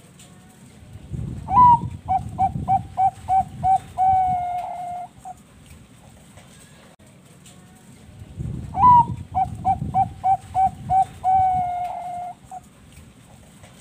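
Zebra dove (Thai-bred perkutut bangkok) singing two full song phrases. Each phrase opens with a rising note, runs into about seven quick short coos and ends on a long held coo with a short note after it.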